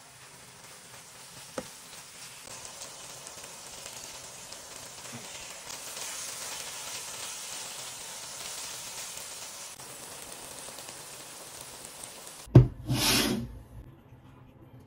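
Okra masala with onions sizzling in a non-stick wok while it is stirred with a wooden spatula, a steady, fairly soft hiss. Just after twelve seconds a sudden thump and a brief loud rush of noise cut in, louder than the frying.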